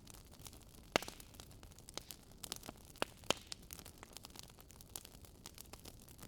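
Campfire crackling: irregular sharp pops and snaps of burning wood over a low steady hiss, with the loudest pop about a second in and another pair around three seconds in.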